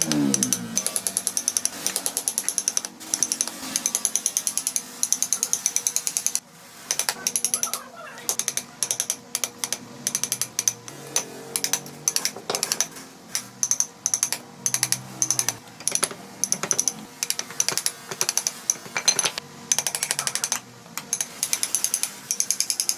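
Rapid mechanical clicking in repeated bursts of a second or two, with short pauses between them.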